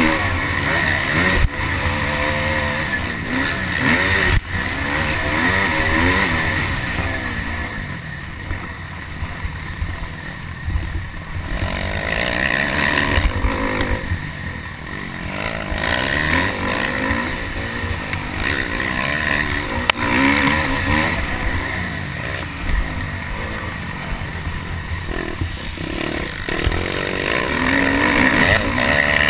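Motocross bike engine revving hard and falling off again and again as it goes through the gears, under a constant low rumble.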